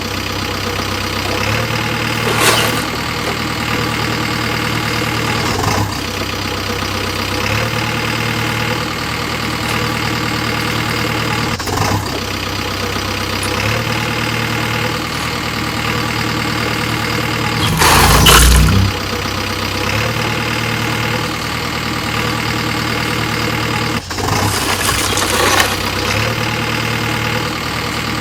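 Diesel engines of tractors and JCB backhoe loaders running steadily at idle while sand is loaded, with a few short louder surges of noise, the loudest lasting about a second, about two-thirds of the way through.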